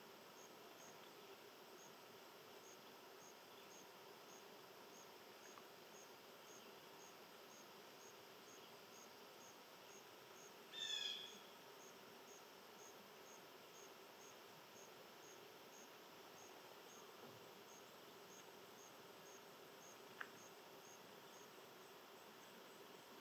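An insect chirping faintly and evenly, about two high chirps a second. A bird gives one short, louder call about halfway through, and there is a single click near the end.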